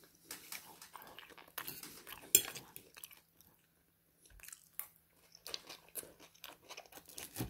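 Close-miked chewing and crunching of crispy oven-baked chips, in uneven bursts with a pause in the middle; the loudest crunch comes about two and a half seconds in.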